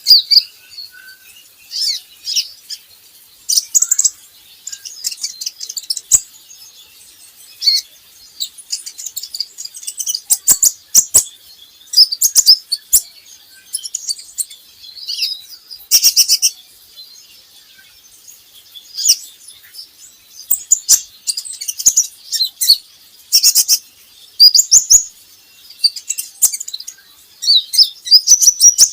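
Kolibri ninja sunbird chirping: bursts of sharp, high, quick chirps and twitters a second or two apart, the kind of call used as a lure to get young birds singing.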